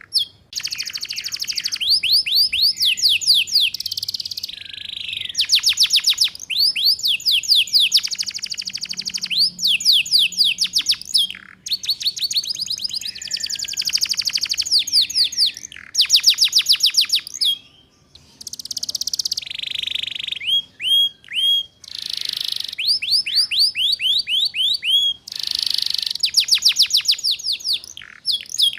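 Domestic canary singing in the ngeriwik style: phrase after phrase of fast, rolling trills of rapidly repeated high sweeping notes, with short breaks between phrases.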